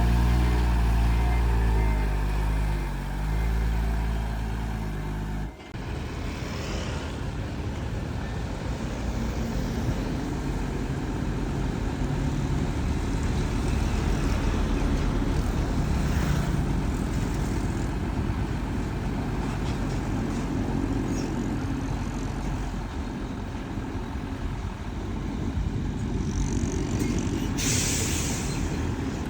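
Heavy diesel engines of dump trucks and a bulldozer running. A deep, steady engine hum for the first five seconds or so changes abruptly to a rougher running engine sound. A short burst of air hiss, like an air-brake release, comes near the end.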